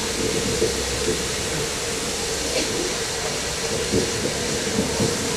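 Steady hiss of steam from an LMS Stanier Black 5 steam locomotive standing in steam, with a low rumble that fades about halfway through.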